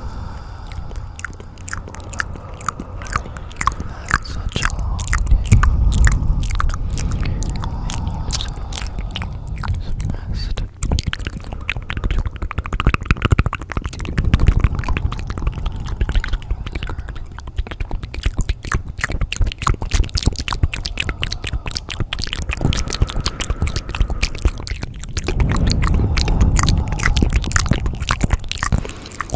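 Layered ASMR sounds: dense crisp clicking and crunching over a low rumble that swells and fades several times.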